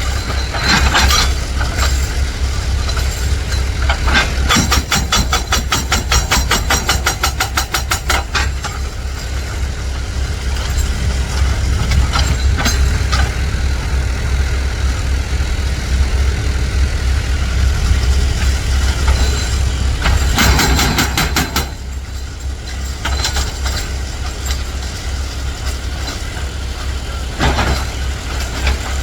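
Heavy dump truck's engine running with a steady deep rumble. A fast rattling clatter comes in for about four seconds near the start, and there are short noisy bursts about two-thirds of the way through and near the end.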